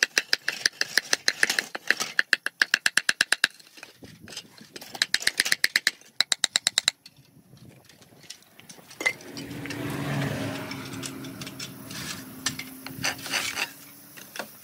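Two runs of rapid, evenly spaced sharp clicks, about eight a second, the first lasting about three and a half seconds and the second about two. In the second half a steady low hum swells and fades.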